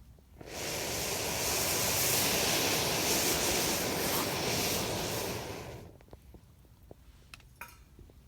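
A loud rushing hiss rises about half a second in, holds for about five seconds and fades out, then a few sharp pops and crackles of a wood fire are heard.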